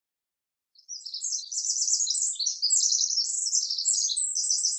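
Birdsong, rapid high twittering chirps, starting about a second in after dead silence.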